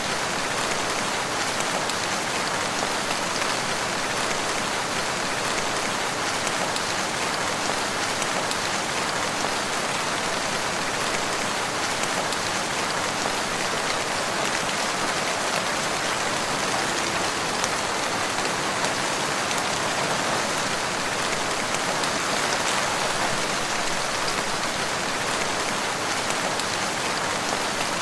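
Steady rain falling and pattering on surfaces, an even, unbroken hiss of dense raindrops.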